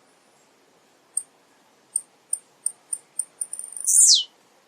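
Male blue-black grassquit (tiziu) singing. A few separate very high ticks come about a third of a second apart and speed up into a quick run, ending near the end in one loud buzzy note that sweeps steeply down in pitch, the bird's 'ti-ziu' song.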